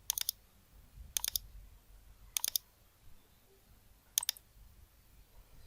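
Camtasia's cursor click sound effect playing back: mouse-click sounds in four short bursts of two or three quick clicks each, a second or more apart.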